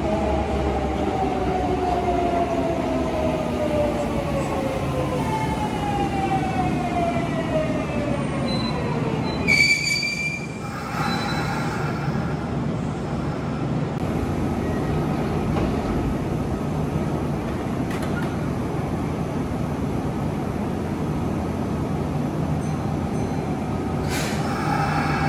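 Kintetsu electric commuter train braking into an underground platform: its motor whine, several tones together, falls steadily in pitch as it slows. A short high brake squeal comes about ten seconds in as it stops, followed by a steady rumble and hum from the standing train.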